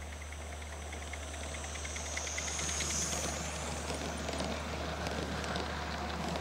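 16mm-scale model locomotive running, with a rapid, even ticking in the first half and a hiss that swells and fades about halfway through, over a steady low hum.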